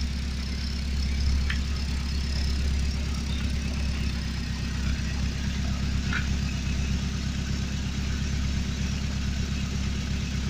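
Car engine idling steadily, heard close at the exhaust tailpipe while it warms up after a cold morning start.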